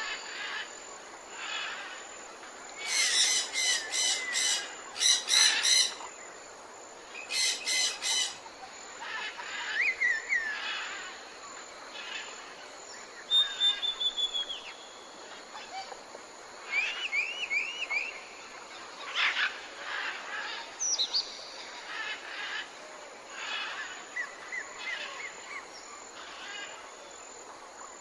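Several wild birds calling and singing: loud, harsh, buzzy repeated calls a few seconds in, then scattered chirps, short up-and-down notes and trills over a steady faint hiss.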